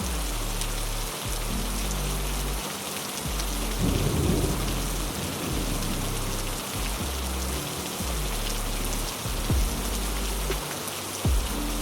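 Steady heavy rain with a roll of thunder about four seconds in, and a few brief low thumps near the end. Low held music tones sound underneath.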